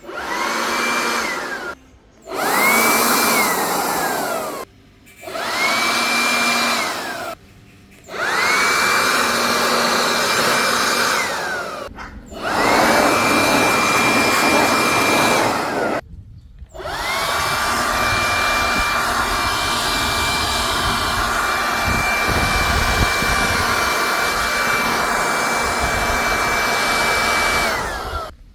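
Cordless garden blower-vacuum running in repeated short bursts: each time the fan motor spins up to a high steady whine with a rush of air, then winds down as it is switched off. The last run holds steady for about ten seconds.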